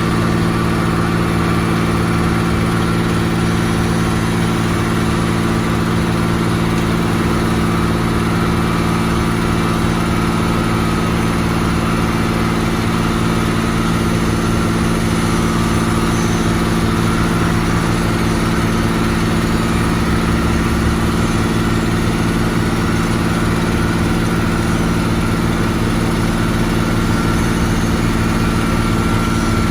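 Heavy construction machine's diesel engine running steadily at a constant speed, its even hum unchanging throughout.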